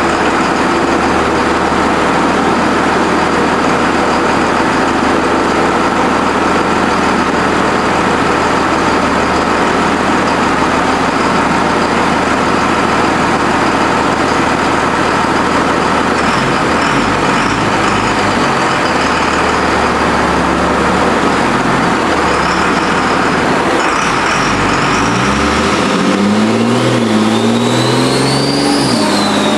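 High-horsepower drag truck engine running hard under load in a dyno pull, a loud steady roar throughout. In the last few seconds the engine note climbs steeply in pitch, then falls off sharply just before the end.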